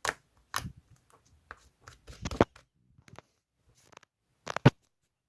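Slime being squeezed and pressed by hand, giving sticky clicks and pops. There is a quick run of them about two seconds in and two loud pops near the end.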